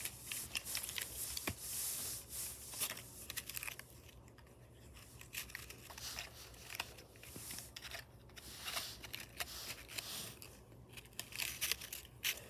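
Irregular rustling and crinkling with scattered sharp clicks, like something being handled or cut, louder in the first few seconds and again near the end, over a low steady hum.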